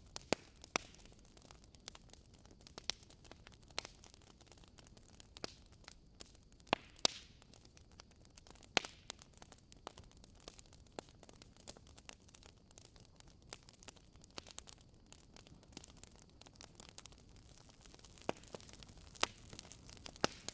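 Wood fire burning in a fireplace: irregular crackles and sharp pops of burning logs over a faint steady hiss, with a few louder snaps scattered through.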